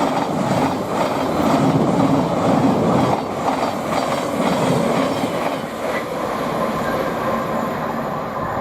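Thameslink Class 700 electric multiple unit passing by: a steady, loud rush of wheels on rail.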